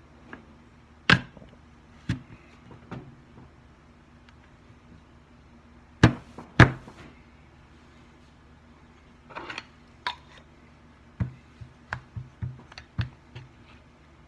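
Apple push corer being slammed down through an apple and its push rod forced through to eject the core: sharp knocks, the two loudest close together about six seconds in, followed by a run of lighter taps.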